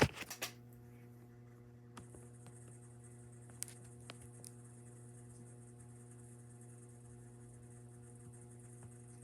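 Aloha Breeze 42-inch ceiling fan running: a steady motor hum with a hiss of moving air above it. A sharp knock right at the start and a few faint ticks a couple of seconds in.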